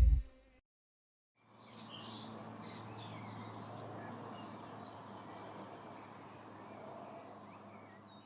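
The music cuts off just after the start. After about a second of silence comes a faint outdoor ambience with birds chirping and a steady low hum, fading out near the end.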